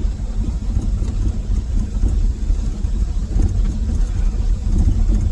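Ford F-350 dump truck's carbureted engine running, a loud, uneven low rumble with no proper exhaust system fitted.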